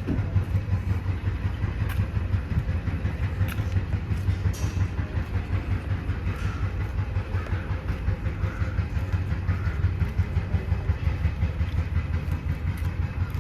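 Heavy demolition machinery working, heard as a steady low rumble that pulses rapidly in loudness.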